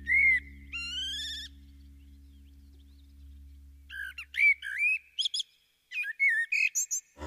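A bird singing short, warbling whistled phrases: one brief spell at the start and a busier run from about four seconds in. A low steady hum lies underneath and fades out about five seconds in.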